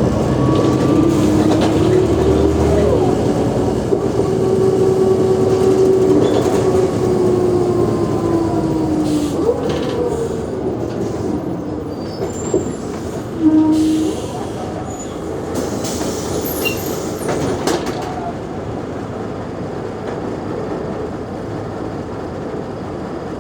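Mercedes-Benz O345G articulated bus running under way, with a drivetrain whine that rises in pitch over the first few seconds, holds, then drops away about ten seconds in. A few sharp knocks and rattles follow as it runs on more quietly.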